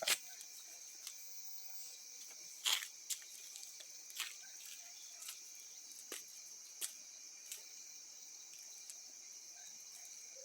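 Wood bonfire crackling, with sharp pops and snaps at irregular intervals, over a steady high chirring of insects.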